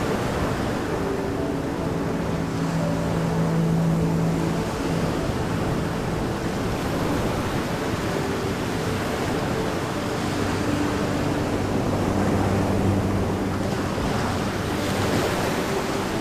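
Ocean surf washing steadily on a beach, with a few low held tones drifting in and out underneath.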